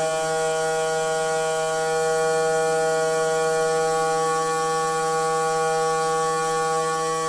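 Noisy water pipe giving off a steady, pitched hum, one unchanging tone with many overtones.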